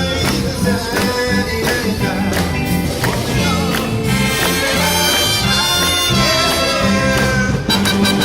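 Live big band playing swing jazz: horn lines over a walking bass and drums with a steady beat.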